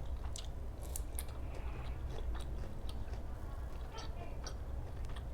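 A person chewing food close to the microphone, with scattered wet mouth clicks and smacks over a steady low hum. The food is grilled pork salad with sticky rice.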